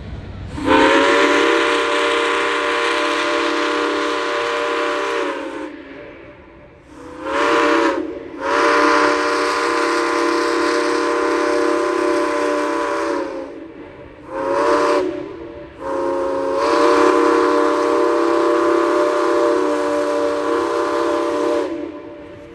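Steam whistle of locomotive 1309, a 2-6-6-2 Mallet, blowing five blasts: long, short, long, short, long, each sounding several notes at once and sagging slightly in pitch as it cuts off.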